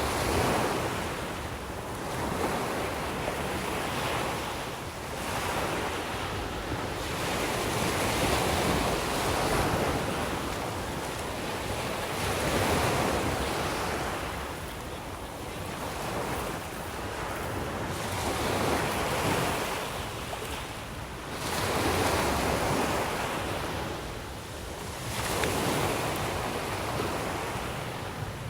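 Sea waves breaking on the shore, the surf swelling and falling back every three to four seconds.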